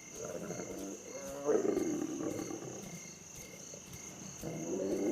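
Lions making two drawn-out low calls, the second starting about four seconds in, with crickets chirring steadily behind.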